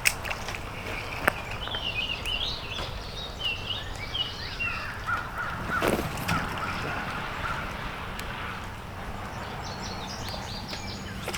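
Birds calling over a steady outdoor background noise, with a sharp click near the start, another about a second later, and a brief louder sound about six seconds in.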